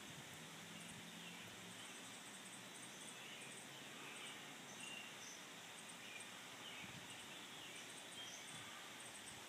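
Faint outdoor background hiss with scattered short bird chirps and calls in the distance.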